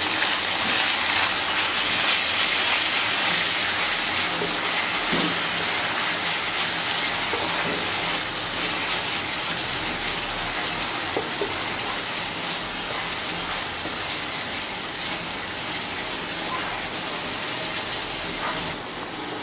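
Sliced onions with ginger, garlic and chilli paste sizzling in hot oil in a nonstick frying pan while being stirred: a steady crackling hiss that eases slightly over time. This is the spice paste being fried down (kosha) to cook off its raw flavour.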